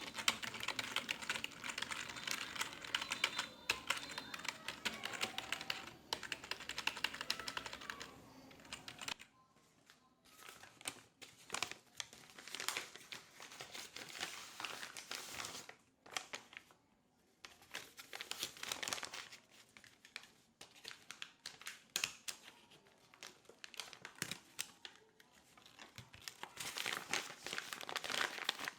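Computer keyboard typing: fast, dense key clicks in runs of a few seconds, broken by short pauses.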